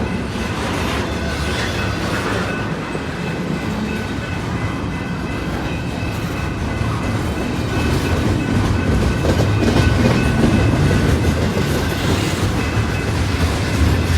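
Intermodal freight train's cars rolling past at speed, a steady rumble with wheels clacking on the rails, growing a little louder about two-thirds of the way through.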